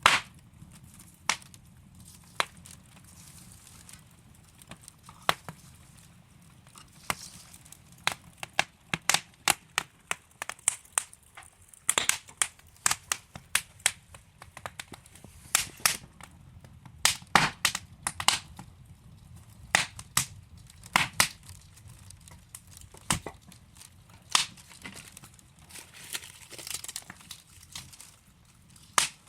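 Wood fire crackling: burning logs giving off sharp, irregular pops and snaps over a faint low rumble of flame.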